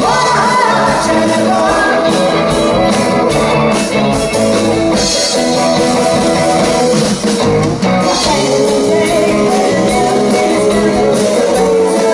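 Live rock band playing a song with lead singing and electric guitar over a steady band backing.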